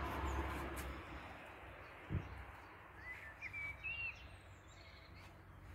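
Faint outdoor background noise with a small bird chirping a few short calls about three to four seconds in. A soft knock sounds about two seconds in.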